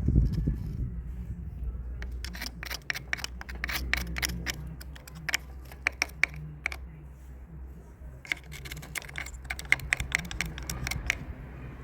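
Clusters of small sharp clicks and taps from tools and metal parts being handled while a car alternator is taken apart, over a low steady hum.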